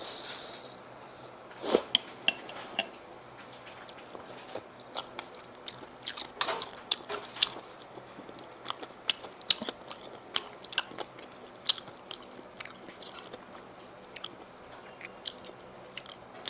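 Close-up eating sounds of sea snail meat being chewed: irregular sharp, wet clicks and smacks, one to a few each second, with a brief hiss near the start.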